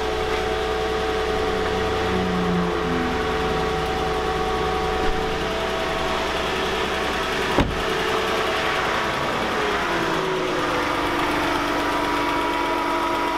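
Mercedes-Benz W210 E-Class engine idling just after a start, its idle dropping to a lower, steady speed about ten seconds in as the higher start-up idle settles. A single sharp knock partway through.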